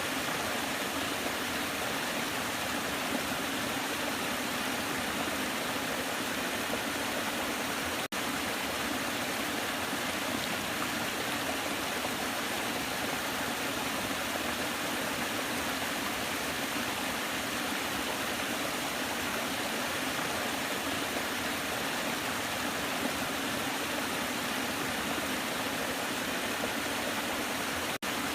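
Waterfall rushing steadily, an even wash of falling water that breaks off for an instant about eight seconds in and again near the end.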